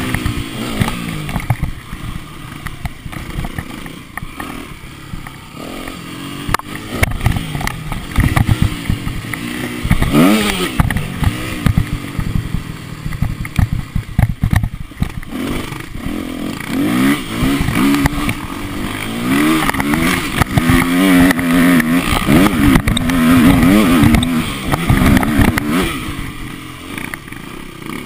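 Motocross bike engine revving, its pitch rising and falling again and again as the throttle is opened and closed. It is quieter for a few seconds early on and louder again in the second half.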